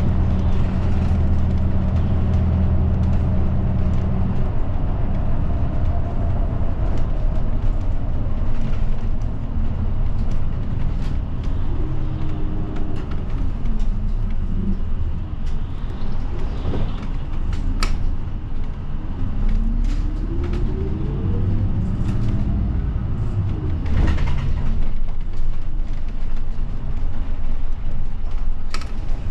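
Route bus engine and road noise heard from inside the cabin as the bus drives along. The engine note holds steady, then falls and rises again as the speed changes. A few sharp knocks or rattles come in the second half.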